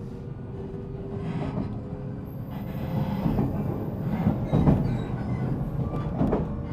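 Running noise inside a JR Central 313 series 0-subseries electric motor car (MoHa 313-7) under way: a steady rumble with the wheels knocking over rail joints several times. A steady whine fades out about two seconds in.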